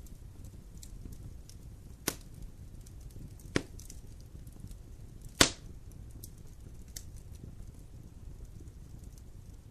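Wood campfire burning with a steady low rumble and constant small crackles, and three sharp pops of the burning wood about two, three and a half, and five and a half seconds in, the last one the loudest.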